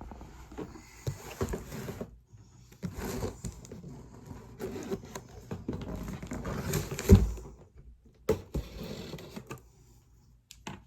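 Rustling of plastic packaging and handling noises, with scattered knocks and one loud thump about seven seconds in, as a packaged item is opened with scissors.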